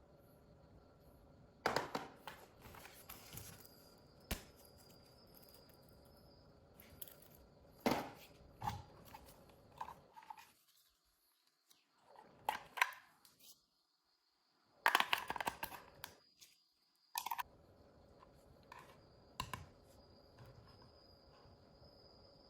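Hands handling objects up close: irregular rustles and sharp clicks, broken by two brief dead-silent gaps around the middle.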